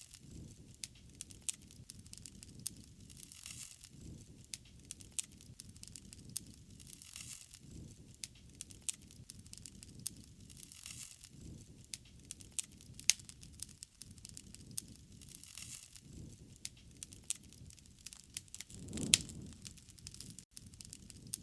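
Wood fire crackling: irregular sharp pops and snaps over a low, uneven rumble, with one louder pop about nineteen seconds in.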